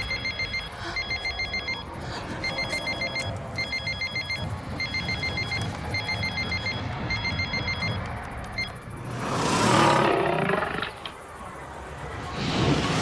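Electronic phone ringtone: a rapid high trill in short bursts, repeating about eight times. About nine seconds in, a swelling rush of noise takes over, and another rises near the end.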